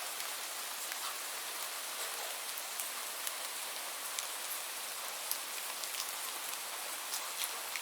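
Steady rainfall: an even hiss of rain with scattered sharp drip ticks of individual drops landing on a surface.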